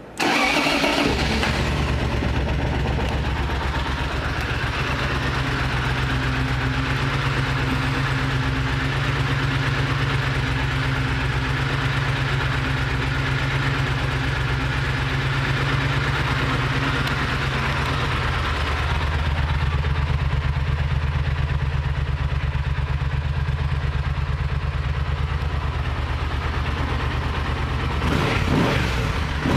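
2010 Triumph Thunderbird's parallel-twin engine starting and settling into a steady idle. Near the end it is revved with a few throttle blips.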